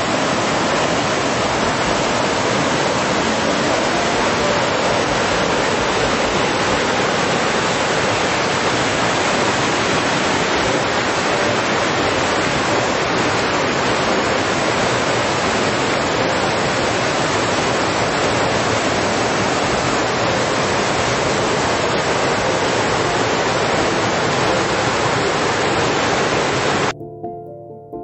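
Rushing water, a loud, steady, even rush. It cuts off suddenly near the end, and quiet plucked-string music takes over.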